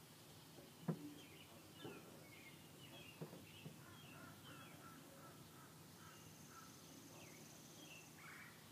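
Faint, repeated short bird chirps, with a few soft clicks in the first four seconds and a thin high buzz for about a second and a half, starting about six seconds in.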